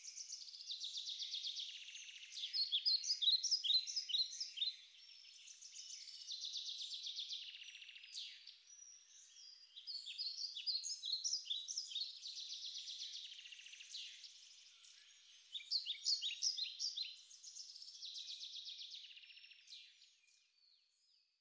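Songbird singing, alternating buzzy trills with runs of quick falling chirps, the pattern repeating several times before fading out near the end.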